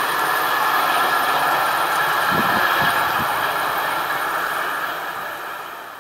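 Passenger train running away down the track: steady wheel-on-rail noise, with a few low thumps about halfway through, fading over the last second or so.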